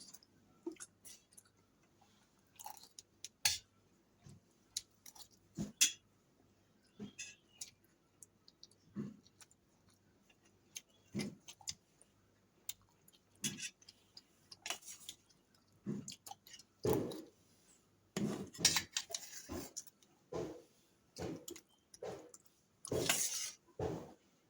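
A person eating fried rice: chewing, with scattered sharp clicks of cutlery against a plate.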